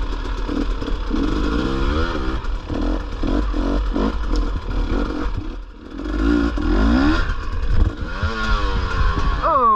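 Dirt bike engine revving up and down in short blips over rough ground, with clatter and scraping; the throttle drops off briefly about six seconds in, then picks up again.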